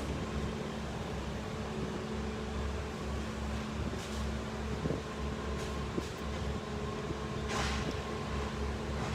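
A large engine running steadily at an even speed, with a brief hiss near the end.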